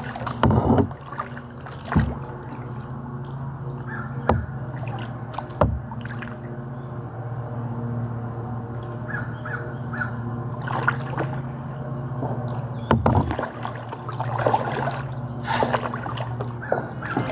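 Kayak paddling on a river: water splashing and dripping off the paddle in scattered strokes, with a bird cawing now and then.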